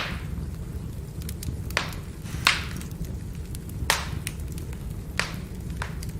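Wood fire crackling: a low steady rumble of burning logs with about five sharp pops and many small ticks of the firewood.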